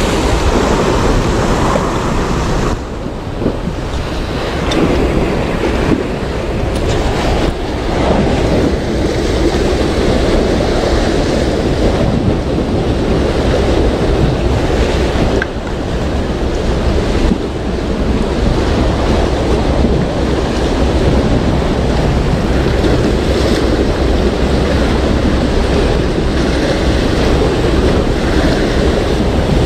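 Sea waves washing and wind buffeting the microphone: a steady, loud rush with no let-up.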